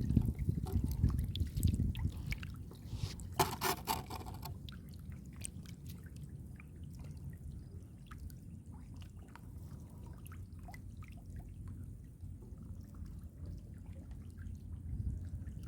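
Shallow muddy water sloshing and trickling, with small splashes and clicks. It is busiest in the first few seconds and settles to a quieter dribble after that.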